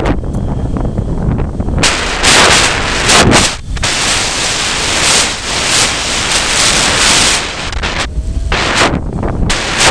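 Strong, gusty wind, about 11 m/s gusting to 19 m/s, buffeting the microphone: a constant heavy low rumble with loud rushing surges as gusts hit. The longest surge comes about four seconds in and lasts some three seconds.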